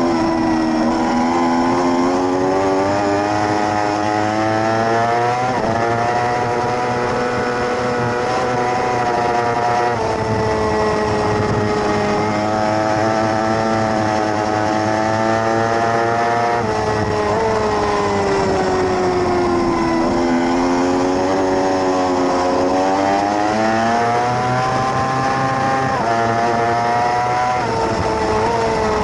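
A 600cc racing motorcycle engine at full throttle, its pitch climbing and dropping sharply at each upshift; around the middle it falls away as the bike slows for a corner, then climbs again through the gears.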